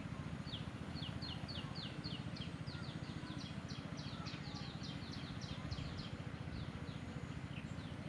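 A bird chirping: a quick, regular run of short, high, falling notes, about three or four a second, that starts about half a second in and thins out near the end. A steady low rumble runs underneath.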